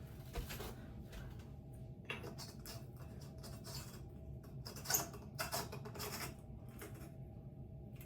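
Ceiling fan light kit parts being handled and fitted: scattered small clicks, taps and rustles, with the loudest click about five seconds in.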